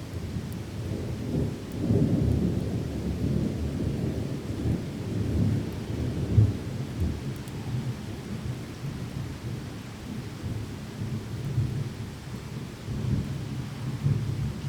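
Low rolling thunder rumbling under steady heavy rain, swelling about two seconds in and peaking once near the middle.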